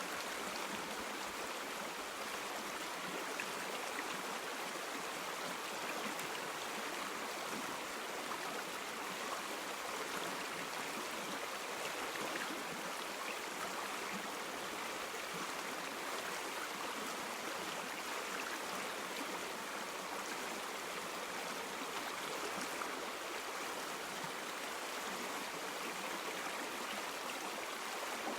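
River water flowing steadily over stones, an even rushing with small babbling splashes.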